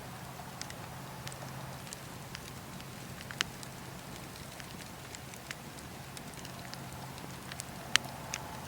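Campfire crackling, with a steady hiss and scattered sharp pops; the loudest pop comes near the end.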